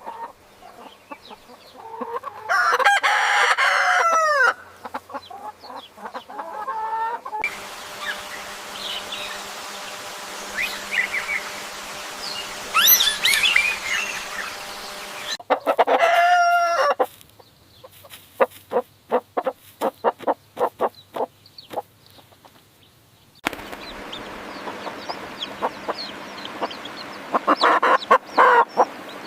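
Chickens: a rooster crowing and hens clucking, in several short recordings cut one after another.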